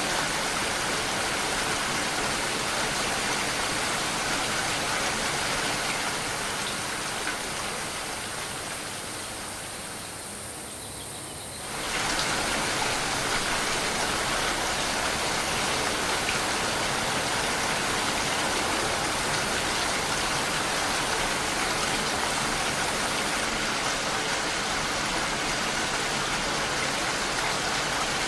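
Steady rain, an even hiss of falling water. It fades gradually for a few seconds, then cuts back in suddenly at full level about twelve seconds in.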